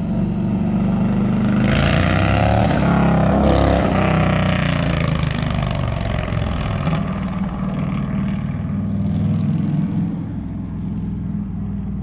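Indian Challenger V-twin with a straight-through TAB Performance 2-into-1 cat-delete exhaust, running as it is ridden around the neighbourhood, a steady low engine note. The sound swells louder with gliding pitch between about two and five seconds.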